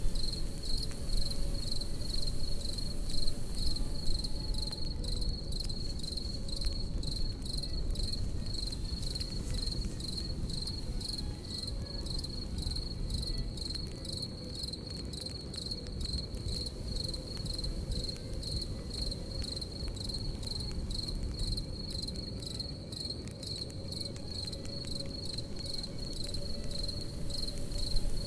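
Crickets chirping in a fast, unbroken pulse at one high pitch, over a campfire's low rumble and scattered small crackles.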